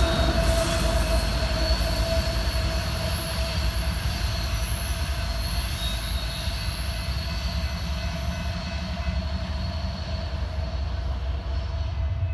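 Freight ore train's cars rolling past with a low rumble and a steady high-pitched wheel squeal, slowly growing quieter.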